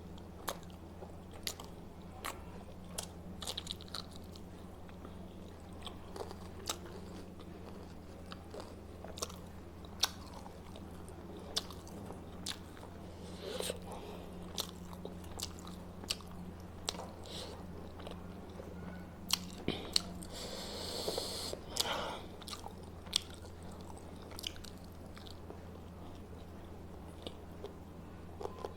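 Close-miked eating: a person chewing and biting food, with many short mouth clicks and smacks at irregular intervals over a steady low hum. A short rustling hiss comes about two-thirds of the way through.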